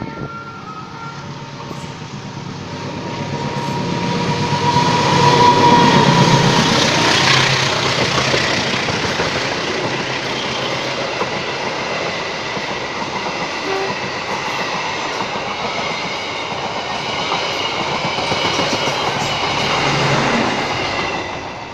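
A train passing close by: it grows louder over the first few seconds, then runs past steadily with a thin high tone alongside, and drops away at the very end.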